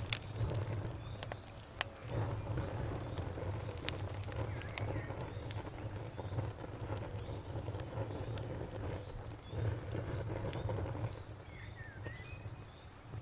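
Campfire crackling, with sharp pops scattered throughout over a low steady rumble; the loudest pop comes right at the start. Crickets chirp in an even, high-pitched rhythm in the background.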